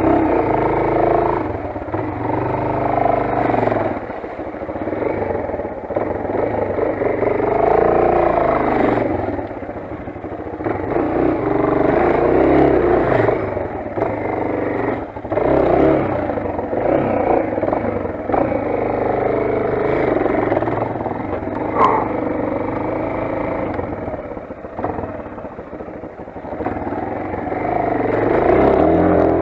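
Motoland XR 250 enduro motorcycle's single-cylinder four-stroke engine running under way, its revs rising and falling every few seconds with the throttle.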